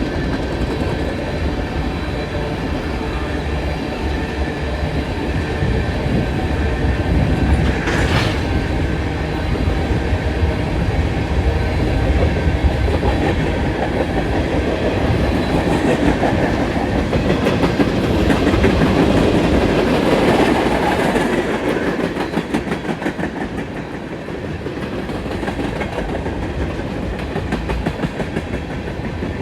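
Freight cars of a BNSF mixed freight train rolling past at speed: a steady rumble with wheels clicking rapidly over the rail joints.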